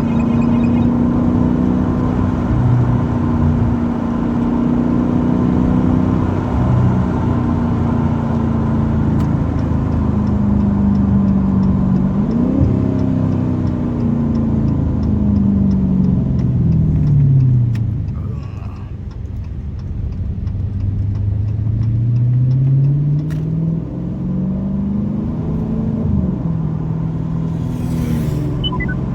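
Straight-piped 6.4-litre (392) HEMI V8 of a 2023 Dodge Challenger Scat Pack driving, its exhaust note rising and falling as the revs change. It eases off and quietens about two-thirds of the way through, then climbs again.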